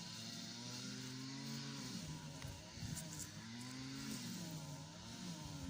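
An engine running steadily, its pitch slowly rising and falling as its speed changes.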